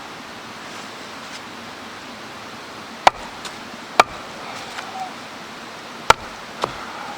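Wood being chopped: four sharp knocks, the first two about a second apart, then two more close together about two seconds later. Under them is the steady rush of a mountain stream.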